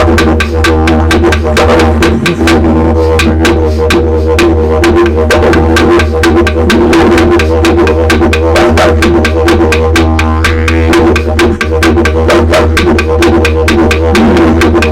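Didgeridoo played as a rhythmic solo: a steady low drone with fast, even pulses of several a second and shifting overtones above it.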